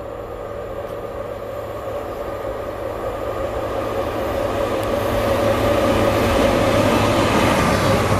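Freight train hauled by two electric locomotives approaching, its rumble growing steadily louder as it nears, with a steady tone running under it.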